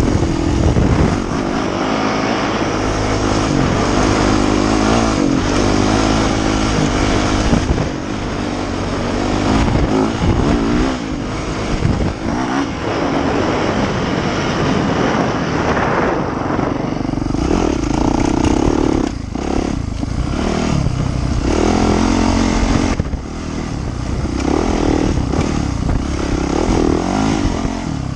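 Yamaha YZ450F four-stroke single-cylinder dirt bike engine being ridden, its pitch rising and dropping again and again as the throttle is opened and closed.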